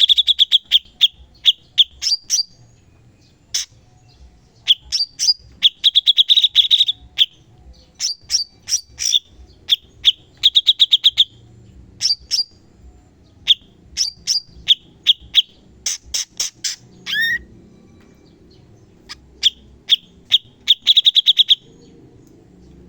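Cucak cungkok bird song: bursts of sharp, rapidly repeated notes, the piercing 'tembakan' volleys used as training song, broken by short pauses and one quick sliding note about two thirds of the way through.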